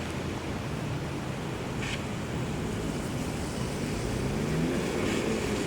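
Road traffic on a rain-wet road: a steady hiss of tyres and rain under a low engine hum. About four seconds in, a vehicle's engine rises in pitch as it accelerates, and there is a short click near the two-second mark.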